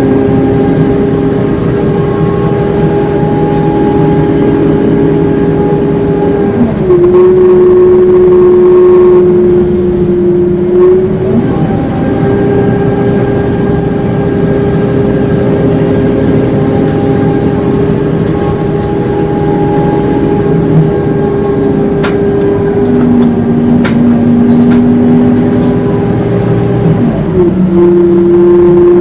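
Scania K230UB Euro 4 city bus under way with its typical howl: a loud, steady whine over the engine's running. The pitch of the howl steps down about seven seconds in, comes back up near twelve seconds, and steps down again near the end, as the bus changes speed or gear.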